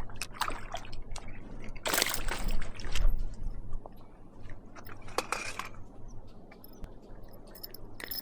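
Water splashing and sloshing in irregular bursts as a small hooked largemouth bass is brought in, the loudest splash about two seconds in, with a few small clicks.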